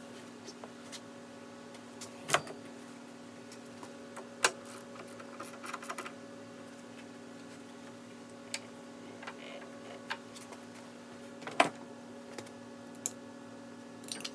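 Scattered light clicks and taps of small parts being handled during snowblower carburetor work, a few sharper knocks among them, over a steady machine hum.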